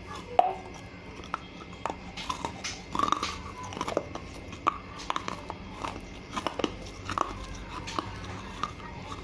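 Close-up chewing of crunchy fired clay pieces with chalk paste in the mouth: irregular crunches and wet mouth clicks, a few strokes a second, with pauses between.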